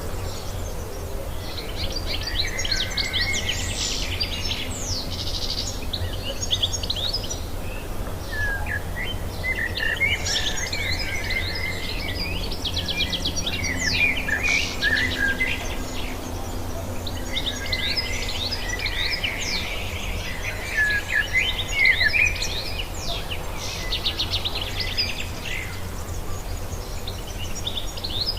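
Wild songbirds singing and chirping in three long bouts of quick, varied notes, over a steady low hum.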